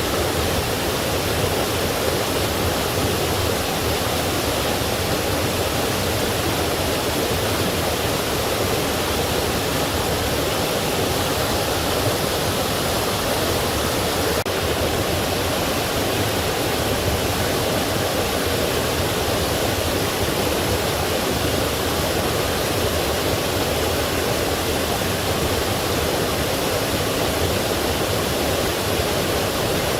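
Forest stream and small waterfall rushing steadily over rocks, an even, unbroken wash of water noise.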